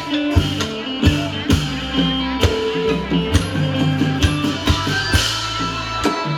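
Isan pong lang folk ensemble playing: pitched melody over sustained bass notes, with a steady drum beat about twice a second.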